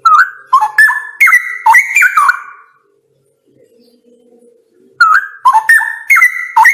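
Straw-headed bulbul (cucak rawa) singing: a loud phrase of rich, liquid whistled notes gliding up and down, then a pause of about two seconds, then a second phrase near the end.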